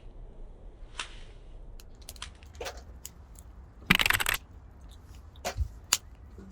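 Scattered sharp clinks and crunches of hard pieces being handled, with one loud, half-second scraping rush about four seconds in.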